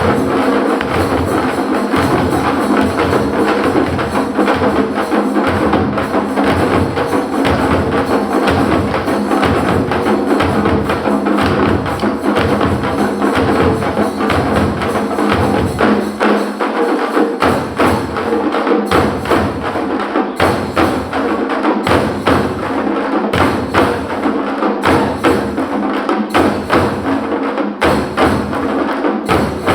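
A group of parai frame drums played with sticks in a fast, dense rhythm of sharp strokes over a deep beat that falls about every two-thirds of a second. The deep beat drops out briefly about halfway through and then returns.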